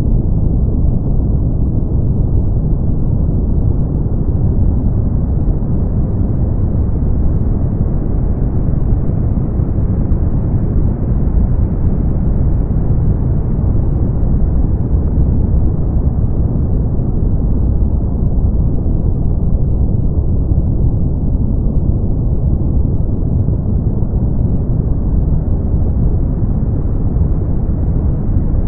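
Brown noise: a steady, deep rushing hiss with most of its weight in the low end and nothing high, its upper edge swelling and fading slowly.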